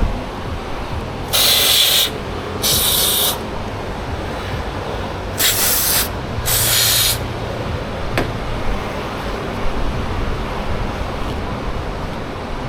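Aerosol brake cleaner sprayed in four short hissing bursts, two pairs a few seconds apart.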